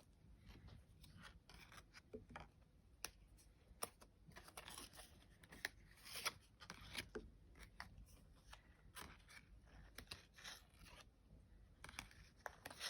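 Cards and paper being handled: faint, irregular soft clicks and rubbing of card stock, with a few longer scraping slides.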